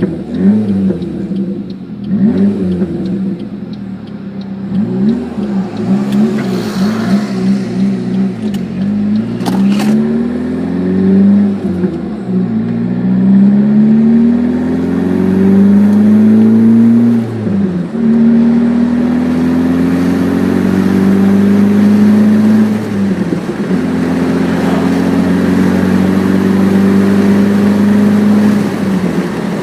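1996 Saab 900 SE Turbo's turbocharged four-cylinder engine through a Cherry Bomb dual side-exit exhaust. It gives several quick revs over the first ten seconds, then pulls up through the gears, the pitch rising steadily in each gear and dropping at two shifts in the second half.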